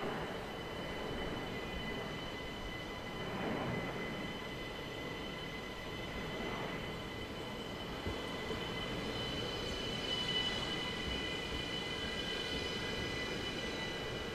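ÖBB Cityjet electric multiple unit rolling slowly into the platform, a steady running rumble with a thin high-pitched whine held over it.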